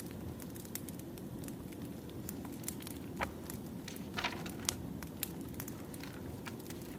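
Wood fire crackling: a steady low rumble of burning logs with scattered sharp pops and snaps, a few louder pops around the middle.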